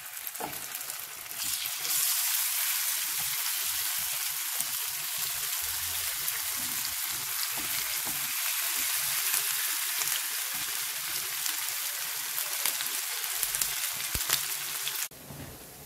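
Batter-coated cauliflower florets sizzling and crackling as they shallow-fry in hot oil in a frying pan. The sizzle grows louder about a second and a half in as more florets go in, then cuts off abruptly near the end.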